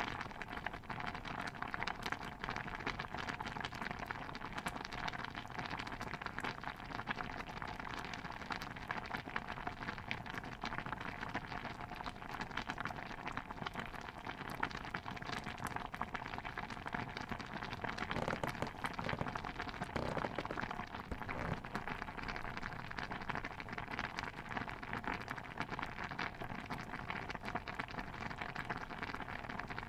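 Steady, dense watery patter of many small pops and crackles, with a few low knocks a little past the middle.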